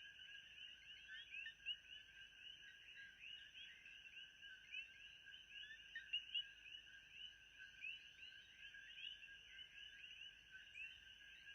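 Faint ambient chorus of many small animals calling: dense, overlapping short chirps, with a steady high-pitched whine above them.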